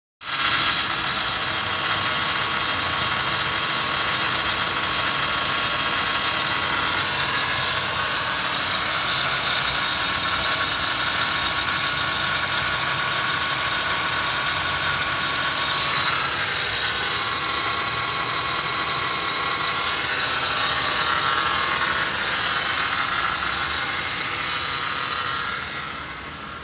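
Holden Commodore's 3.8-litre V6 (GM 3800 pushrod V6) idling steadily under the bonnet, getting a little quieter near the end.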